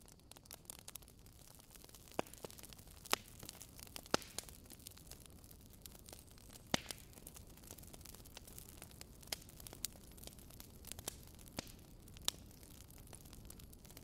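A crackling fire: irregular sharp pops and snaps, one every second or so, over a soft steady hiss.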